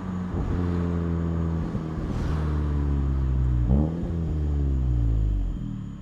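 A 2019 Volkswagen Jetta GLI's turbocharged 2.0-litre four-cylinder, heard at the tailpipe through a Neuspeed stainless cat-back exhaust, slowing down with falling revs. About four seconds in, a quick, sharp rev blip marks a downshift, and the revs then sink again and drop away near the end.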